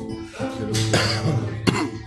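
Acoustic guitar playing between sung lines, with the singer coughing twice, about a second in and again shortly before the end.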